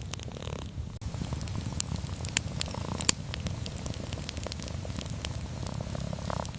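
A cat purring steadily, with a campfire crackling and snapping alongside it. Two sharper snaps come about two and a half and three seconds in, and the sound drops out for an instant about a second in.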